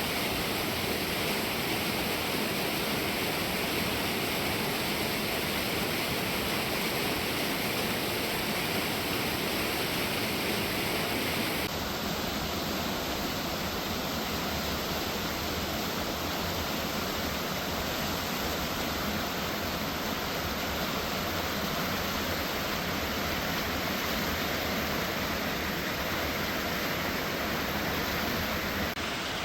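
Steady rush of falling water from a waterfall, an even roar without a break. The sound changes abruptly about twelve seconds in, losing some of its high hiss.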